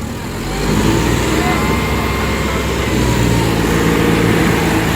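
Tractor diesel engine running steadily, getting louder about half a second in and then holding.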